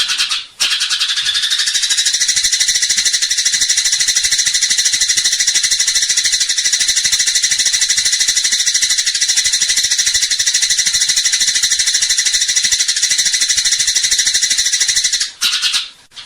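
Eurasian tree sparrows in fighting chatter: a fast, unbroken run of high chirps, with short breaks just after the start and near the end.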